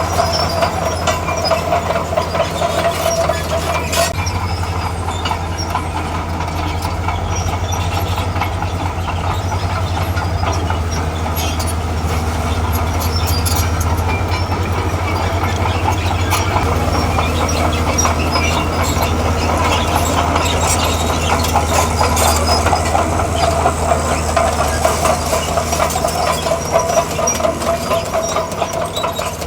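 Diesel engine of a tracked earthmover running steadily under work, with a constant low hum, a steady whine, and scattered clanks and clinks from the steel tracks and metal parts.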